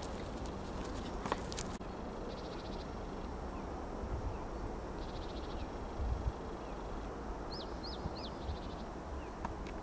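Faint bird calls over a steady low rumble: a few brief rapid trills, and three short chirps about three quarters of the way through.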